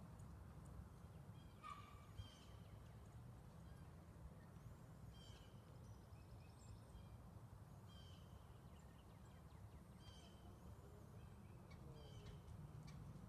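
Near silence: a faint low outdoor rumble, with short high bird chirps every couple of seconds and a brief trill midway.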